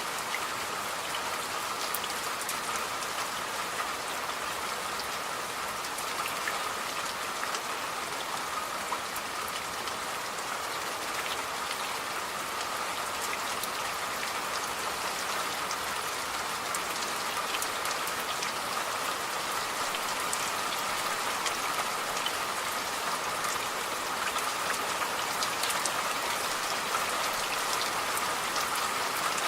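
Steady rainfall, with fine scattered drop ticks over an even hiss.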